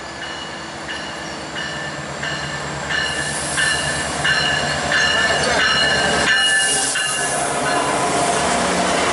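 An approaching train with its locomotive bell ringing, the strokes coming about one and a half times a second, while the rumble of the train grows louder.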